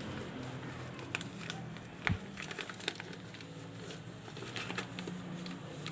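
Gram flour being added to sliced onions in a bowl and worked in: soft crinkling, rustling and small scattered clicks, with one louder thump about two seconds in, over a faint steady hum.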